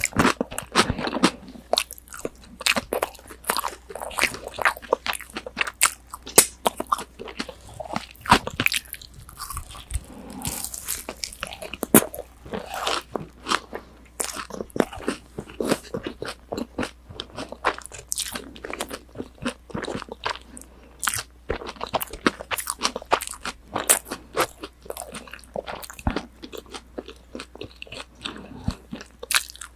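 Biting and chewing crispy breaded, deep-fried pork cutlet (tonkatsu) right at the mouth, a dense run of sharp crunches from the fried crust going on without a break.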